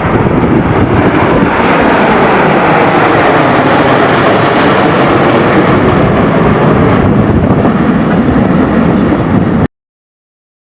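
Very loud jet noise from a U.S. Navy Blue Angels F/A-18 passing close, a dense steady rush that buffets the microphone. It cuts off abruptly near the end.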